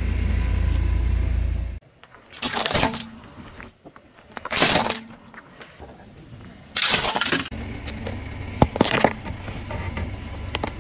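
Low car engine and tyre rumble that cuts off suddenly, then three crunching bursts and a few sharp cracks as a car tyre rolls over and crushes objects.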